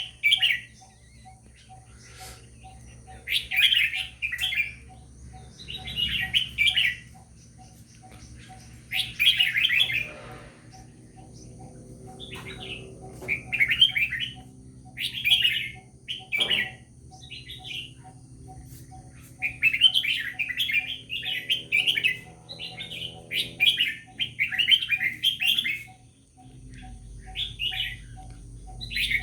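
Caged red-whiskered bulbul singing. It gives short, rich warbled phrases of about a second each, repeated every two to three seconds.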